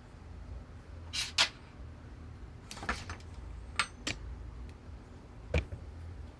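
A handful of sharp clicks and knocks of metal bicycle parts and tools being handled over a low steady hum, the loudest about a second and a half in.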